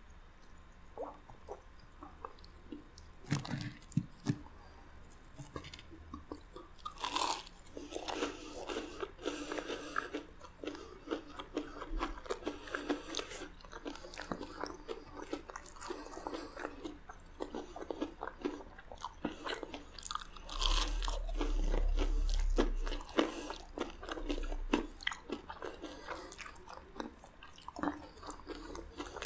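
Close-miked crunching and chewing of crisp Cheetos-crusted fried food, with many sharp crackles from each bite. There is a low rumble for a couple of seconds about twenty seconds in.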